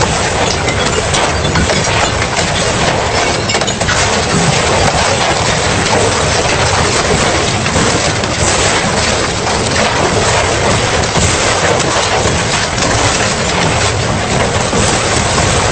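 Industrial double-shaft shredder tearing through metal scrap: a continuous dense crunching and cracking of material being ripped apart by the cutter shafts, loud and without a pause.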